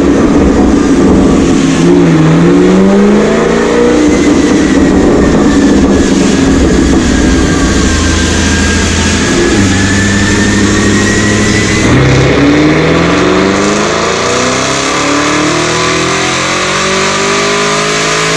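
Chevrolet Camaro V8 under load on a chassis dyno, its exhaust note climbing as it is run up through the revs, over the hum of the dyno rollers. The pitch drops sharply about twelve seconds in, at an upshift, then rises steadily again.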